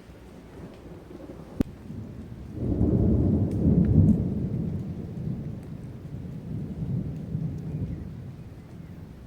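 A long rolling peal of thunder: a deep rumble that swells a little under three seconds in, peaks about a second later and slowly fades away. A single sharp click comes just before it.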